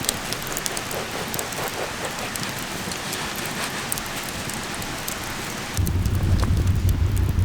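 Food sizzling in an iron frying pan over a campfire, a dense hiss with scattered pops and crackles. About six seconds in it changes abruptly to a low rumble.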